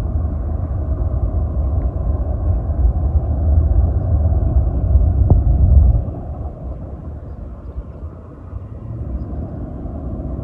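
Jet airliner's engines rumbling deep and low as it takes off and climbs away, heard from the ground. The rumble drops off sharply about six seconds in.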